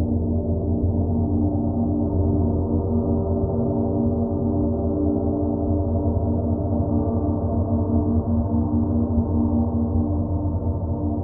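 A large gong sustaining a deep, continuous wash of overtones, kept sounding by soft repeated playing so that no single strike stands out, with a strong low hum beneath shimmering upper tones.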